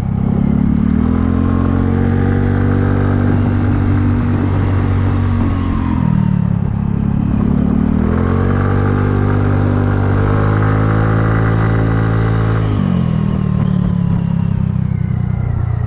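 Kymco People 250 scooter's single-cylinder engine running on the road, climbing in pitch under throttle and holding, easing off about six seconds in, then pulling up again and easing off about thirteen seconds in. Its exhaust leaks are sealed with high-heat epoxy, and it sounds semi-quiet.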